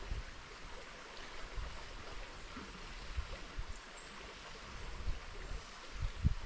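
River water flowing, a steady rushing hiss, with a few low buffets near the end.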